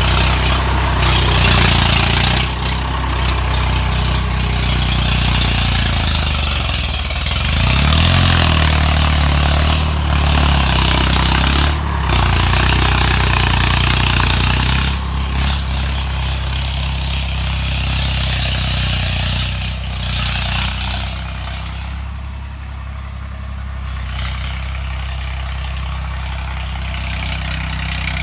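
Swaraj 855 FE tractor's three-cylinder diesel engine running steadily, its pitch dropping and climbing back up about seven seconds in, then settling a little quieter for the last stretch.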